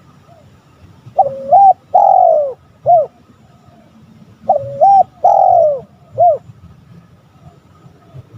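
Spotted dove calling: the same phrase twice, about three seconds apart, each of two short notes, a longer falling note and a short closing note.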